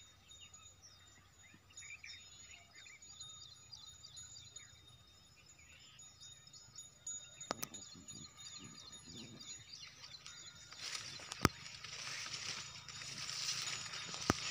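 Small birds chirping over faint open-field ambience. There are two sharp clicks, and a hiss grows over the last few seconds.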